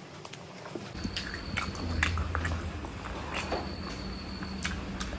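Close-miked chewing and biting on mutton curry, with scattered wet mouth clicks and smacks.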